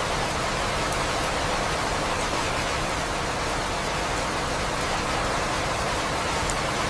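Steady rain falling, an even unbroken hiss with the odd sharper drop-tick.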